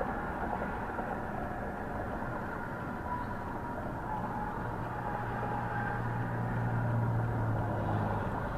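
Steady road and vehicle noise, with a low engine hum that comes up about halfway through, swells, and fades near the end.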